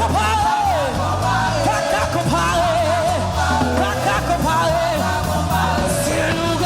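Live worship music: a singer with vibrato over a full band with bass and drums.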